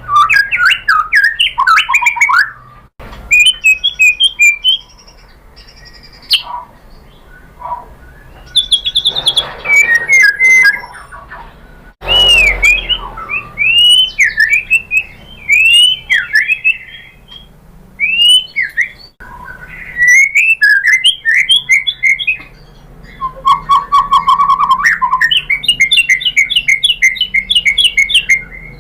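White-rumped shama singing a varied song: bursts of rapid rising and falling whistles, trills and chirps, phrase after phrase with short pauses between.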